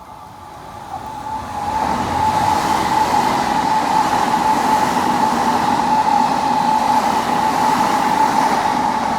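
Odakyu electric commuter train running past on the track, its noise swelling over the first two seconds and holding loud and steady, with a steady high whine over the rumble, beginning to fade near the end.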